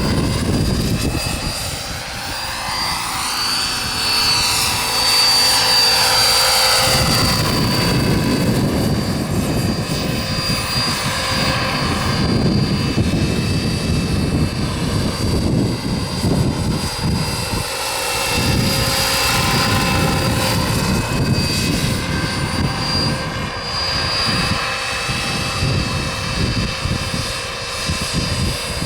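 Small radio-controlled turbine helicopter with a Wren twin-shaft turbine in flight: a steady high turbine whine over the rush of the rotor. The sound swells and shifts in tone as the helicopter moves about.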